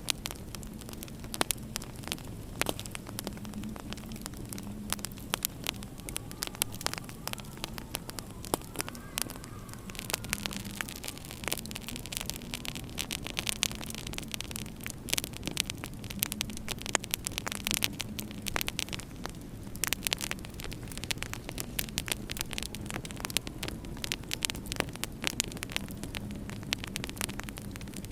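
Wood fire in a fireplace crackling, with many small pops and snaps scattered irregularly over a steady low hum.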